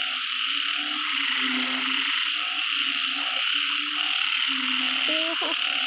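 A chorus of frogs and toads calling after heavy rain: low droning calls about half a second long repeat roughly once a second, with a few rising calls near the end, over a dense steady high-pitched chorus.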